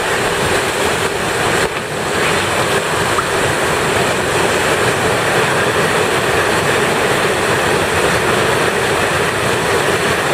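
Waterfall water rushing in a steady, loud hiss, with a brief dip about two seconds in.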